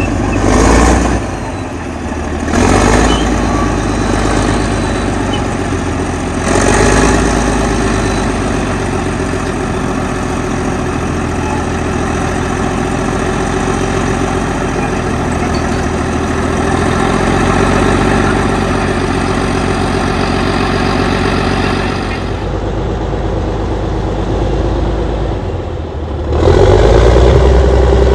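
Allis-Chalmers HD-21 crawler dozer's diesel engine running steadily, surging briefly a few times in the first seconds. Near the end the sound goes duller for a few seconds, then comes back louder and deeper.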